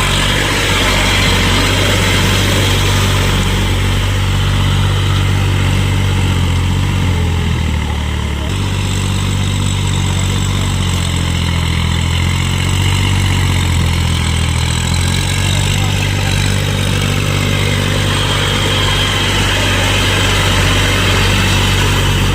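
New Holland tractor's diesel engine running steadily, with a brief change in its note about eight seconds in.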